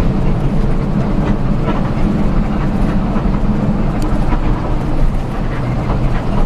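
Steady low rumble of a moving vehicle, its engine and running noise droning evenly with a few faint rattles.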